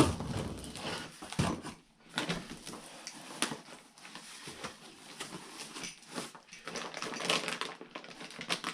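Packaging rustling and parts being handled as a large RC truck axle is unwrapped, with irregular clicks and knocks. The louder knocks come right at the start and about a second and a half in.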